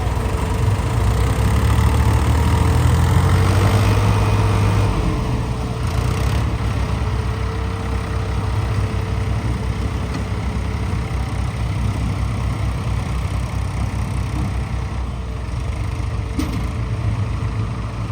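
Heavy diesel farm-machine engine running steadily, a little louder for the first few seconds, during a tractor-and-harvester mud recovery.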